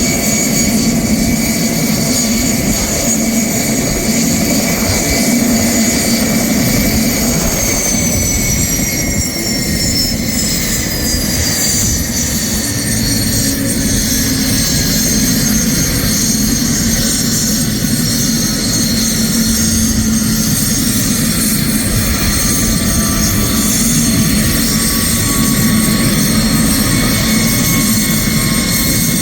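GTD-350 gas-turbine (turboshaft) engine of a homemade helicopter running steadily with a loud turbine whine; several of the high whine tones slide slowly down in pitch starting about seven seconds in.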